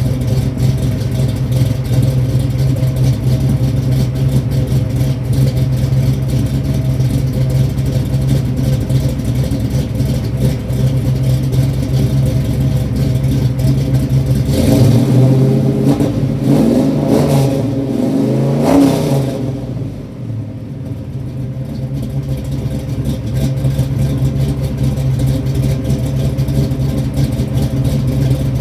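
406 small-block Chevy V8 idling through a 3-inch exhaust with an H-pipe and Flowmaster Super 44 mufflers. About halfway through it is revved several times, then drops back to idle.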